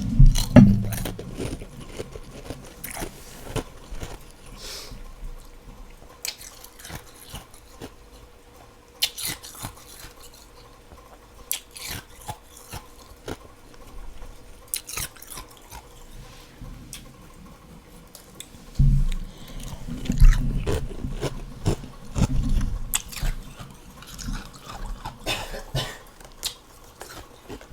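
Close-up chewing and crunching of soft freezer frost: irregular crisp crackles throughout, with heavier, deeper bites near the start and again about two-thirds of the way through.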